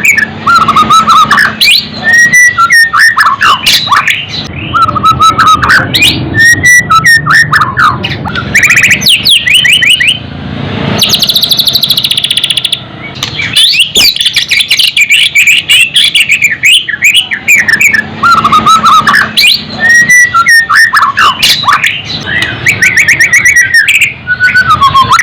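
White-rumped shama (murai batu) singing loudly and continuously: a varied run of whistled phrases, quick trills and rapid chattering notes, with a harsher buzzy stretch near the middle.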